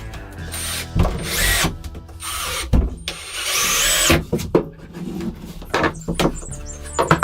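Small electric power tool running in two short bursts, each with a high whine that climbs as it spins up, with knocks in between.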